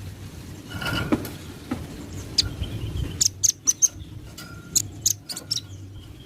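Velvet-fronted nuthatch calling: short, sharp high chips, a few at first, then a quick run of them in the second half.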